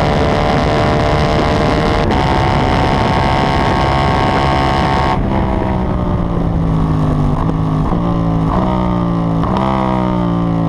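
KTM 790 Duke's parallel-twin engine at high revs under full throttle, heard from on board with wind noise, with a brief break in the note about two seconds in. About five seconds in the throttle closes and the engine note falls in steps as the bike changes down through several gears, slowing for a corner.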